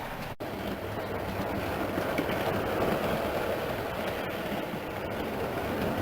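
A 00 gauge model train running on the track, its wheels rumbling and clicking over the rails and growing louder in the middle as it runs past, over the steady hum of room fans. The sound breaks off for an instant about half a second in.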